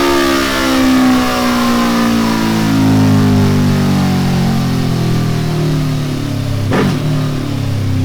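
Suzuki Hayabusa inline-four running through a Delkevic oval carbon 4-into-2 exhaust, its revs falling steadily and then levelling off near the end. A brief sharp crack comes about seven seconds in.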